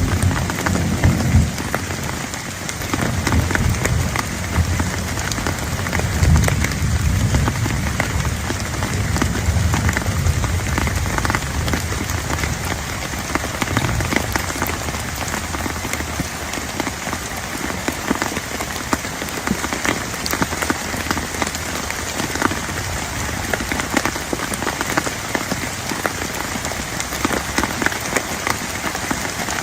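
Heavy rain falling steadily, dense drops ticking sharply on a surface. A low rumble sits under it for roughly the first half and then fades.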